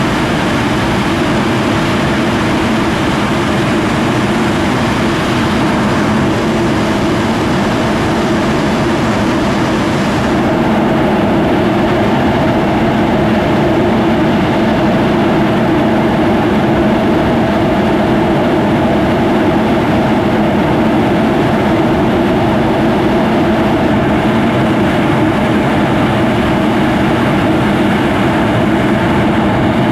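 English Electric Lightning F6's twin Rolls-Royce Avon turbojets running loudly and steadily. About ten seconds in the tone shifts, the high hiss dropping away as the overall level rises slightly.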